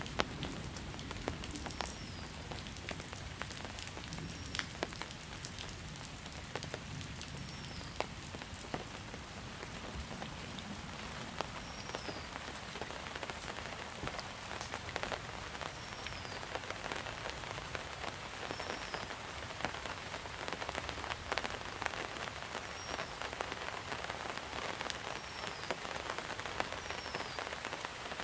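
Steady monsoon rain falling on surfaces, with many separate drops pattering and dripping. A short, high, falling chirp repeats about every second and a half.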